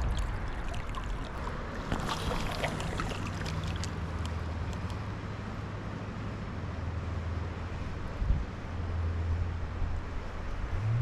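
Running creek water with a low steady hum underneath, and a few light clicks about two to three seconds in.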